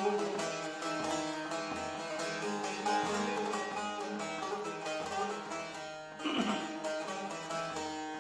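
Bağlama, a Turkish long-necked lute, playing a plucked melodic instrumental passage of a Turkish folk song.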